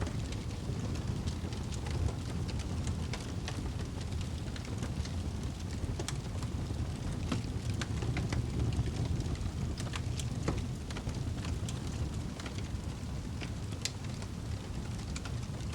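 Fire burning in a fireplace: a steady low rush of flames with frequent, irregular sharp crackles and pops.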